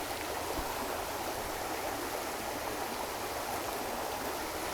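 River current running over rocks: a steady rush of flowing water.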